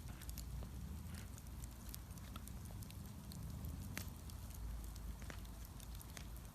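Bonfire burning: scattered sharp crackles and pops over a low steady rumble, the loudest pop about four seconds in.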